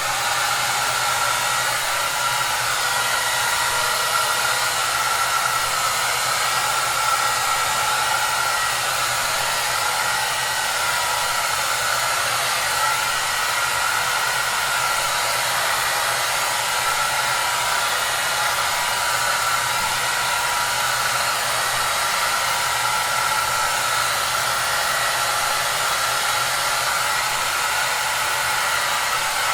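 Electric hair dryer running continuously at one steady setting: an even rush of blown air with a faint motor hum under it, unchanging.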